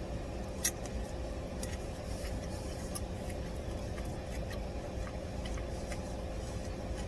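Steady low background rumble with a faint constant hum and a few soft, short clicks.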